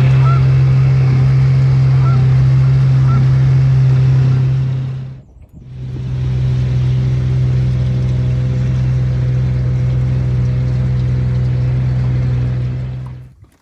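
An engine running at a steady pitch, fading out briefly about five seconds in and again near the end, with a few short chirps over it in the first seconds.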